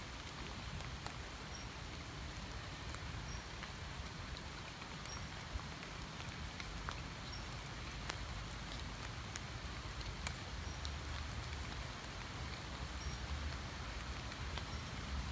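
Steady rain falling on a flooded pond and the trees above it, an even hiss with scattered sharp drop ticks. A faint, short, high peep recurs every second or two.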